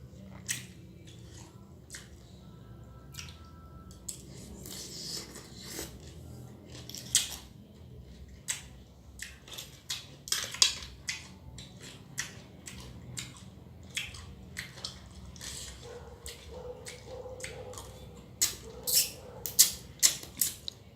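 Close-up eating sounds from a mango salad with fresh blue swimmer crab: chewing and crunching, with irregular sharp cracks and clicks as crab shell is bitten and broken. The cracks come more often in the second half.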